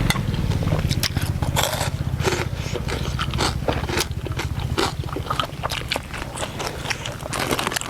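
Close-up eating sounds: crunching and chewing on crispy pork rinds, many short crackly bites in quick succession over a steady low hum.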